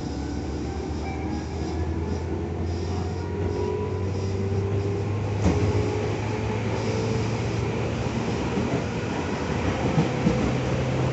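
Tobu 10000 series electric train running, heard from inside the car: steady rumble of wheels on rail under a low motor hum. About halfway through, a brief knock comes as the hum steps up in pitch, and it rises again near the end.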